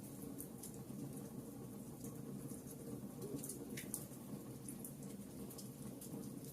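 Wood fire burning in a fireplace: a steady low rush of flames with scattered small snaps and crackles, and one sharper pop about four seconds in.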